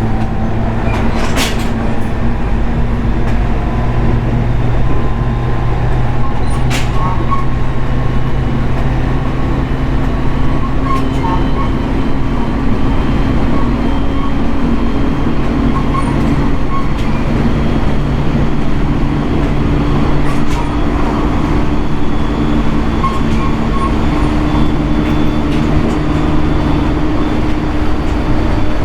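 Interior running sound of a JR East 701 series electric multiple unit on the move: a steady rumble of wheels on rail, with motor tones slowly rising in pitch. Now and then there is a sharp click from the track.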